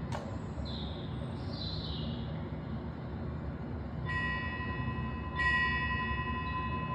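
A small metal bell struck twice, about a second and a half apart in the second half, each note ringing on, over a steady low background noise.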